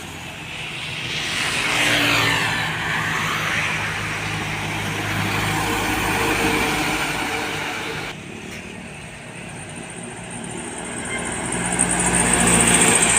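Heavy diesel road vehicles passing close by. One goes past about two seconds in, its sound sweeping down in pitch, and after an abrupt cut another approaches, growing loud with a high whine near the end.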